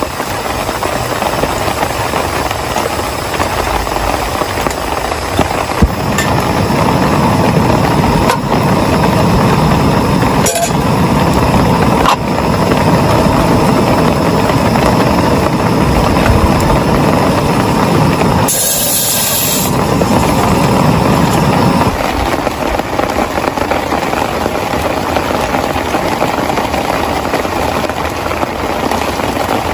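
Heavy rain pouring steadily, growing heavier for about fifteen seconds in the middle, with a few sharp taps and a short hiss about two-thirds of the way through.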